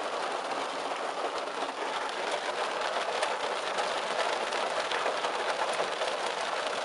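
Heavy rain beating on the roof and windshield of a parked car, heard from inside the cabin: a steady, dense patter of many small ticks.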